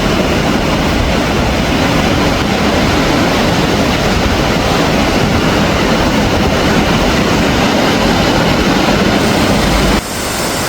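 River water rushing steadily over the rocks of a gorge, a loud even rush that drops suddenly in level near the end.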